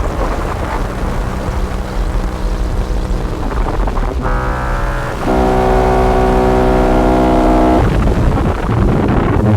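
Distorted electronic drone from a modular synthesizer through fuzz and filter pedals: a noisy, rumbling wash. A buzzing pitched tone comes in about four seconds in, grows louder from about five seconds, and breaks up into noise again near eight seconds.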